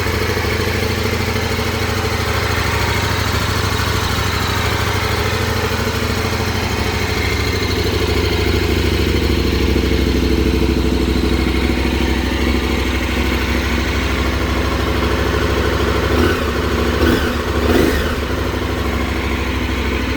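KTM 1090 Adventure R's V-twin engine idling steadily, with a few quick throttle blips near the end.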